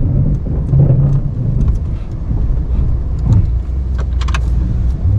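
Ram 1500 Classic pickup's engine running steadily while plowing snow, with a few light clicks about four seconds in.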